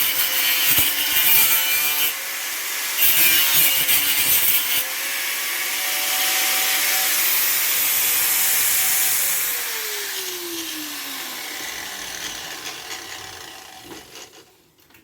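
Electric power saw cutting plastic, its motor whine wavering under load over a rasping hiss. A bit past halfway the cutting stops and the motor winds down in a falling whine that fades away.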